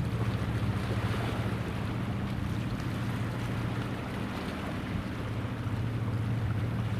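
Steady low drone of a ship's engine, with wind and water noise over it.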